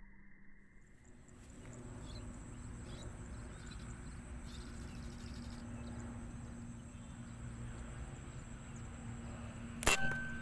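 Steady low background noise, then a single sharp air rifle shot near the end, ringing briefly.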